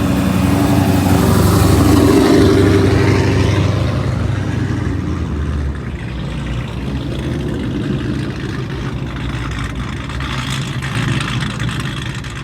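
A car accelerating hard as it pulls out and drives past, loudest about two seconds in, then fading as it goes away and leaving a lower engine rumble.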